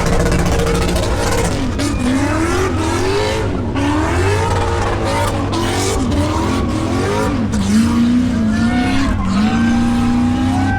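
V8 car doing a burnout: the engine holds a steady pitch briefly, then revs up and down about once a second, over the continuous hiss and squeal of spinning rear tyres.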